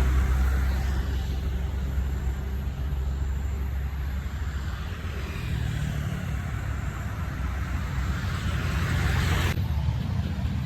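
Old truck's engine running as it climbs a steep hill: a deep, steady rumble with road noise.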